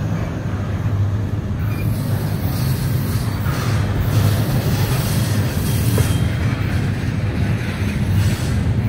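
Double-stack container train's well cars rolling past steadily, with continuous wheel and rail noise.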